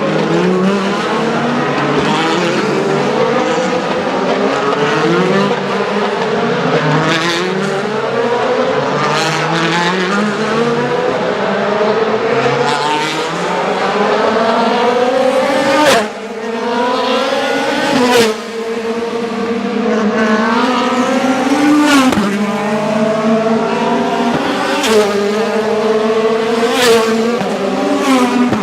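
Several DTM touring cars' V8 engines accelerating hard past one after another, each engine note climbing in pitch and dropping back as the gears change. Sharp cracks punctuate the running, several in the second half.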